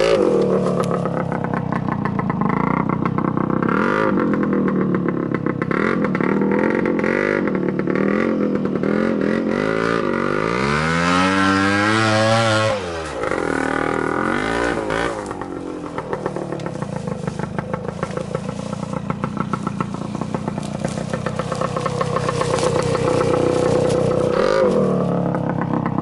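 Trials motorcycle engine being ridden, revving up and dropping back again and again, with one big rise and fall in pitch about halfway through.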